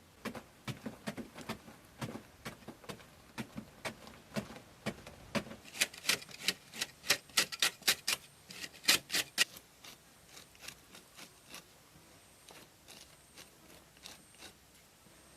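An irregular run of sharp clicks and taps from small hard objects striking one another, quickening and growing loudest about six to nine seconds in, then thinning out to sparse, fainter taps.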